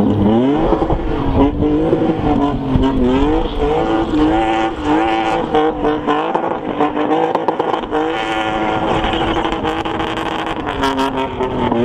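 A BMW E30 spinning car's engine revving hard: the pitch swings up and down as the throttle is worked, then holds at high revs for long stretches while the rear tyres spin in smoke.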